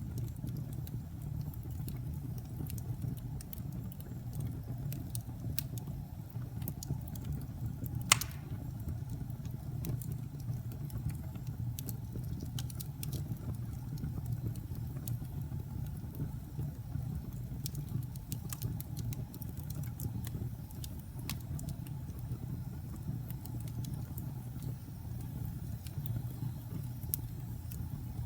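Fire crackling in a fireplace: a steady low rumble with scattered small snaps and pops, and one sharper, louder pop about eight seconds in.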